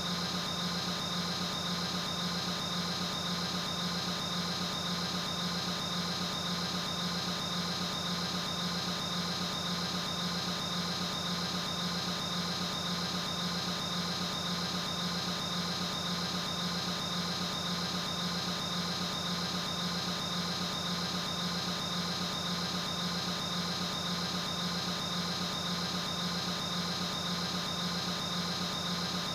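A steady, unchanging mechanical drone with a fast, even pulsing, like a machine running at idle.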